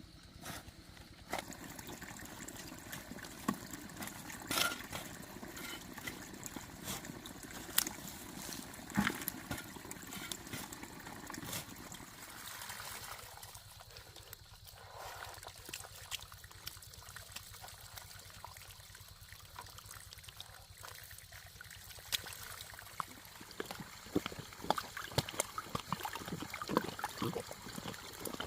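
Water trickling and running steadily, with scattered small knocks and splashes that come thicker near the end.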